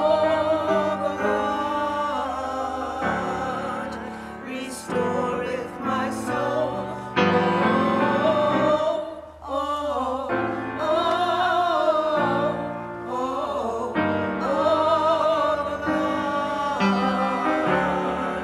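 Singing in a classical style with vibrato, accompanied by piano, in phrases broken by short pauses.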